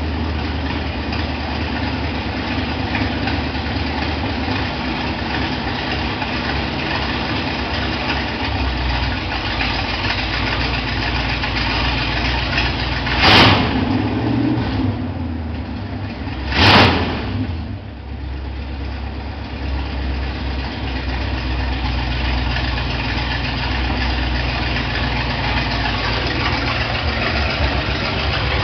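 Dodge V8 engine rumbling at idle, with two short, loud bursts about three seconds apart near the middle.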